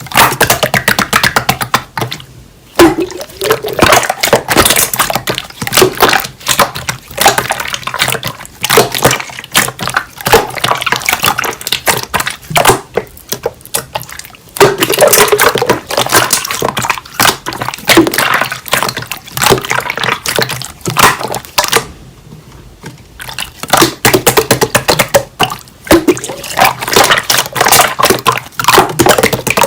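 Slime being squished, pressed and stretched by hand, making dense runs of wet crackling pops and squelches, with short lulls about two seconds in and again past the twenty-second mark.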